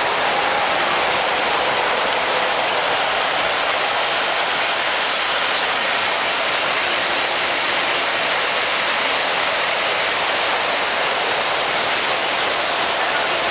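Miniature model trains running along their track, a steady, even rushing hiss.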